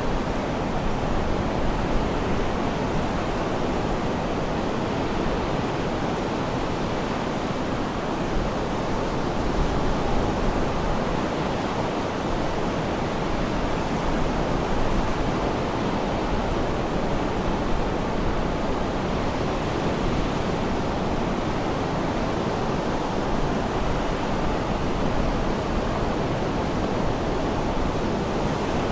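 Sea surf washing steadily, a continuous even rush of waves.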